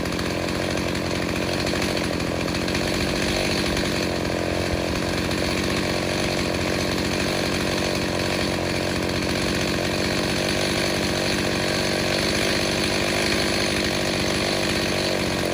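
A Stihl 029 two-stroke chainsaw, rebuilt with a 45 mm cylinder, cutting wood at full throttle, running steadily without a break.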